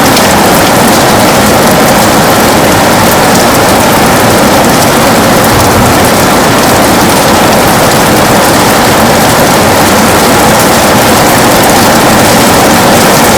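Heavy rain pouring steadily on a window, a loud even hiss with the patter of single drops flecked through it.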